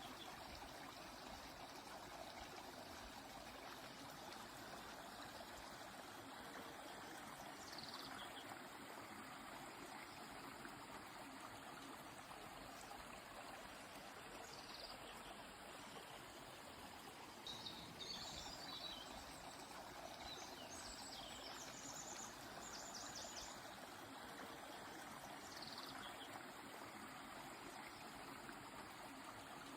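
River water flowing steadily, with scattered high bird chirps: a few short falling calls, and a cluster of chirps with a run of quick repeated notes a little past the middle.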